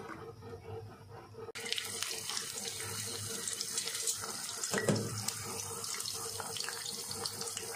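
Tempe slices frying in hot oil in a pan: a steady sizzle full of small crackles that starts abruptly about a second and a half in. A single knock about five seconds in.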